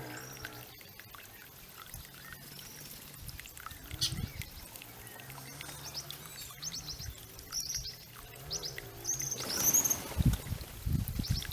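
Small birds chirping in short, high calls over water trickling from a garden fountain, with a louder burst of splashing in the last couple of seconds.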